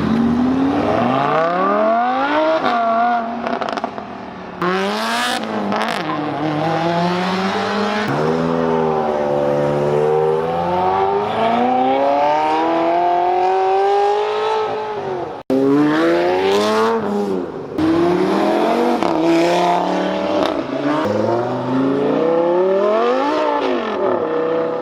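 Car engines revving and accelerating, their pitch climbing and dropping several times as the revs rise and fall, with abrupt cuts between clips about two thirds of the way through.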